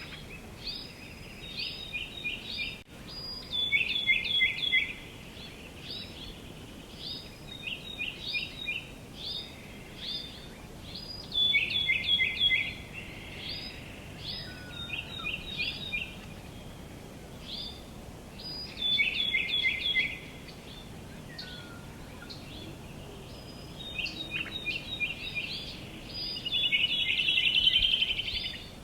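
Small birds chirping: quick runs of short, high chirps repeated every second or two, with louder bursts now and then and a denser run near the end, over a faint steady background hiss.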